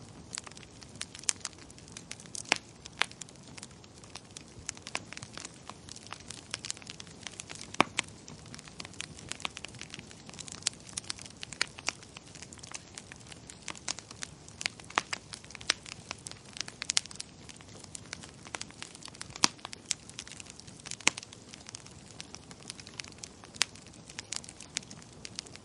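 Wood fire crackling in a fireplace: irregular sharp pops and snaps over a low, steady hiss of the flames.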